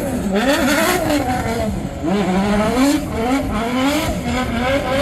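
A drift car's engine revving up and down again and again as the throttle is worked, over the hiss of sliding tyres.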